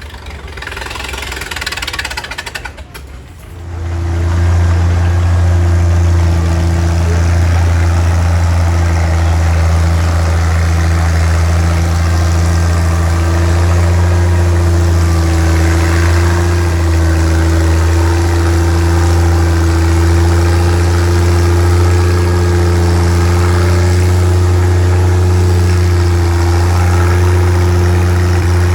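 Antique tractor engine running loud and steady at one speed, starting abruptly about three and a half seconds in after a brief quieter stretch.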